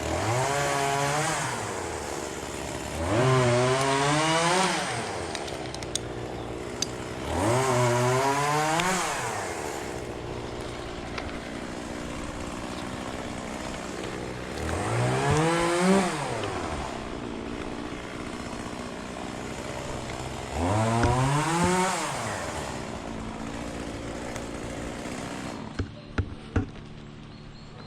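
Gas chainsaw idling and revving up five times, each rev climbing in pitch for a second or two and falling back to idle, as in cutting oak; the engine sound drops away near the end, followed by a few sharp clicks.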